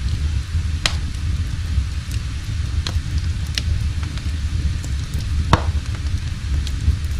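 Wood fire crackling in a fireplace: irregular sharp pops over a steady low rumble, one louder crack about five and a half seconds in.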